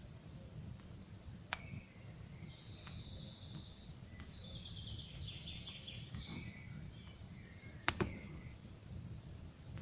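Wood campfire crackling, with two sharp pops, one about a second and a half in and a louder one near the end. A songbird sings one fast trill of rapidly repeated high notes that drops in pitch, in the middle.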